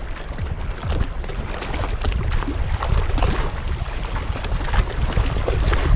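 Wind buffeting the camera's microphone in a steady low rumble, with scattered light clicks and ticks above it.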